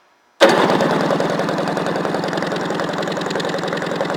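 Sea-Doo Rotax 657X two-stroke twin engine cranked over by its starter for a compression test on the PTO-side cylinder, with fast, even compression strokes. It starts suddenly about half a second in and runs steadily. The test gives an even cold compression of 149 PSI, a healthy reading.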